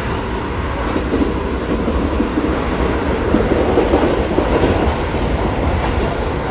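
Seibu 6000 series electric commuter train running, a steady rumble of wheels on the rails that swells a little in the middle.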